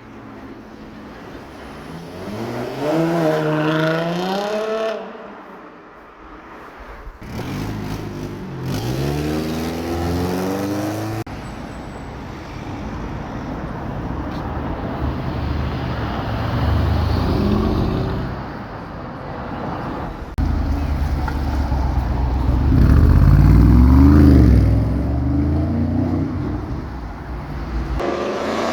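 Car exhausts revving in a run of short clips, the engine note rising and falling in repeated blips, with abrupt changes from one car to the next. The loudest, deepest revving comes about three quarters of the way through.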